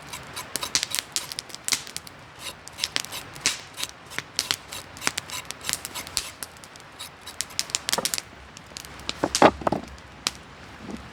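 Campfire crackling: a dense, irregular run of sharp pops and snaps from burning wood, thinning out after about eight seconds, with one louder knock a little after nine seconds.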